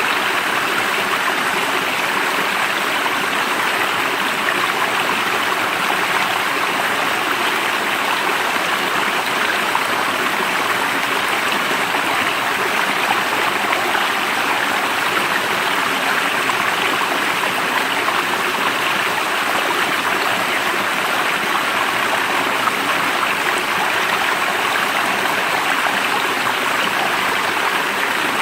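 Stream water flowing steadily, an even unbroken wash of water noise.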